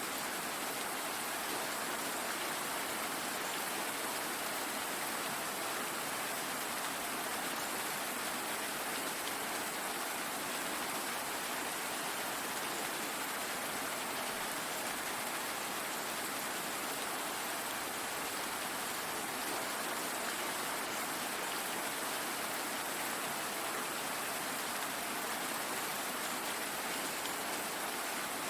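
Steady rainfall, an even hiss of rain without breaks or single louder drops.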